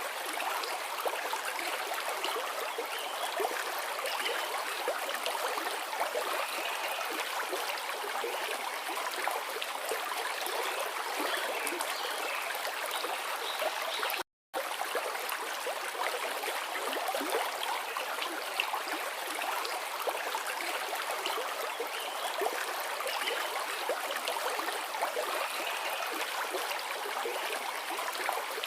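Forest river flowing: a steady, even rush of running water. It cuts out completely for a split second about halfway through.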